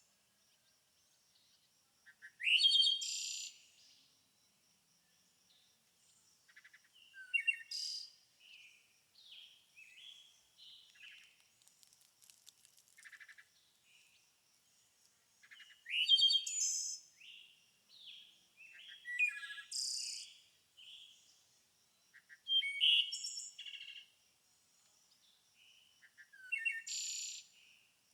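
Wild songbirds singing: loud, short song phrases come every few seconds, with softer chirps and notes between them.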